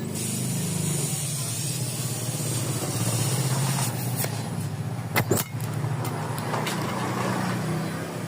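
Engine running through a modified, bored-out muffler, giving a steady, deep bassy exhaust note that wavers a little in pitch. A few sharp clicks sound about five seconds in.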